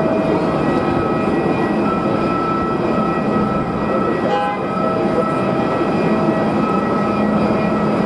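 Jet airliner engines running with a loud, steady rush and several steady whining tones on top.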